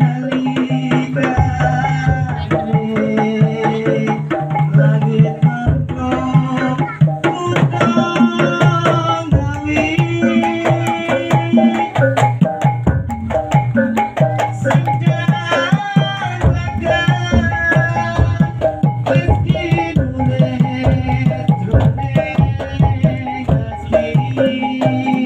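Drum-led music of the kind that accompanies Topeng Ireng dancing: hand drums beat a dense, driving rhythm under a pitched melody that runs without a break.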